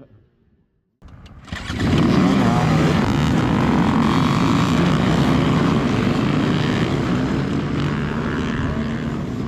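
Dirt bike engines revving hard together, a dense, loud engine noise that cuts in about a second in, swells quickly to full level and holds, easing slightly near the end.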